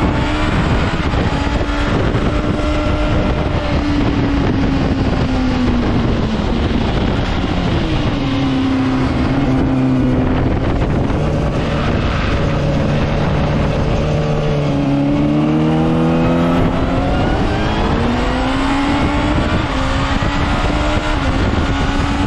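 Honda CBR600RR's inline-four engine on the stock exhaust, ridden under load. The engine note runs high, falls to a lower pitch through the middle, and climbs again near the end as the revs rise and fall with the throttle and gear changes.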